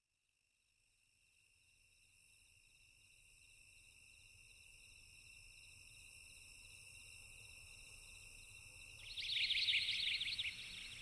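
Crickets chirping in a steady high trill, fading in from silence. About nine seconds in, a much louder rapid chirping joins.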